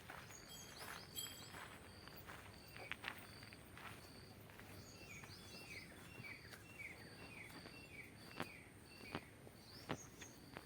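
Faint footsteps with a bird calling in the background: a short high note repeated about twice a second, and a quick run of falling chirps about midway.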